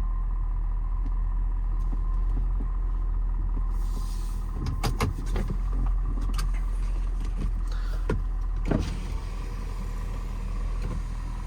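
Ford 6.7 L Power Stroke V8 diesel running with a steady low rumble, heard from inside the cab. From about four seconds in, the cab's power rear window is worked: a run of clicks and knocks for about five seconds, and a rush of outside air noise once it is open.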